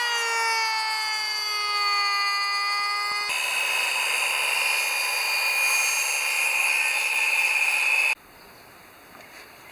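Chainsaw running at full throttle with a high whine, its pitch sagging over the first two seconds as it takes load. It turns harsher and noisier after about three seconds and cuts off abruptly near the end.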